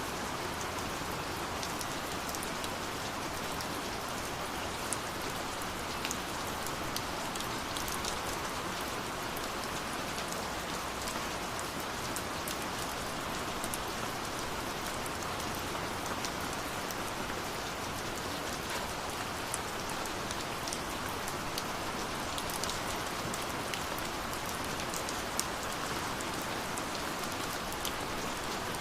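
Steady rush of falling water from a waterfall, with a wood fire crackling over it in many small, sharp pops scattered irregularly.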